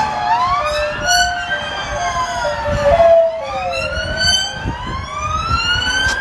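Emergency vehicle sirens wailing, several overlapping tones sliding slowly up and down in pitch, with a lower tone stepping back and forth between two pitches.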